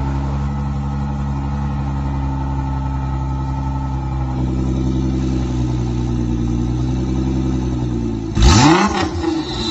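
Nissan GT-R R35's twin-turbo V6 idling steadily through an Armytrix Valvetronic aftermarket exhaust, then a quick throttle blip near the end: the revs rise and fall sharply and loudly, with a smaller blip right after.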